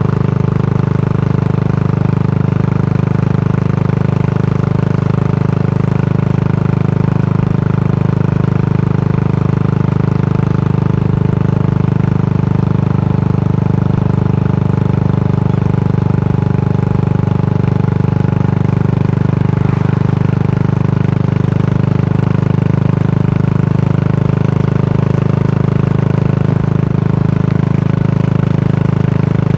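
Yamaha SR400's air-cooled single-cylinder engine thumping steadily through a Goods Tapered Cone slip-on muffler, its pitch holding level with no revving.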